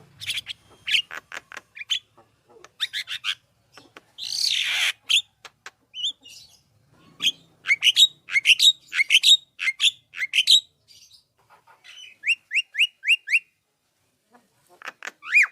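Jalak kebo myna singing energetically: a varied run of sharp chirps and whistles, a harsh scratchy call about four seconds in, quick repeated notes, then a series of short rising whistles near the end.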